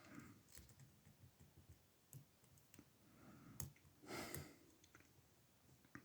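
Faint, scattered ticks of lock picks working the pins of an older Ruko oval cylinder, held in a deep false set, with one sharper click about three and a half seconds in.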